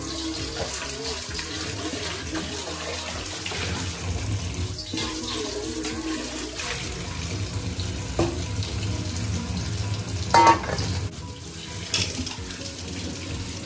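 Kitchen tap running into a stainless steel sink as a metal pan is rinsed and water is poured over boiled potato slices in a perforated steamer basket, with a few clinks of metal, the loudest about ten seconds in.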